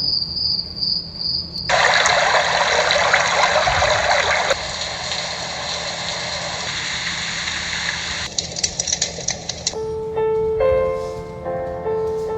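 Small white-noise sleep speaker playing its built-in sounds in turn: a chirping cricket loop for the first couple of seconds, then a steady rushing water sound, then from about ten seconds in a simple melody in plain electronic tones.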